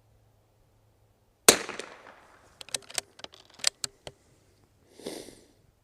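A single shot from a Bergara B14R .22 LR bolt-action rifle about a second and a half in, with a short ringing tail. A quick series of sharp clicks follows as the bolt is worked to eject and chamber a round.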